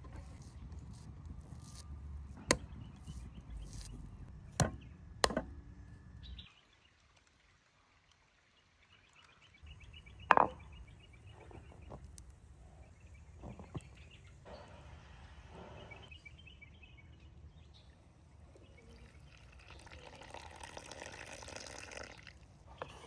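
Cooking sounds at a wood fire: a few sharp knocks and clacks of utensils, a brief drop to near silence about a third of the way through, then one loud knock and patches of sizzling.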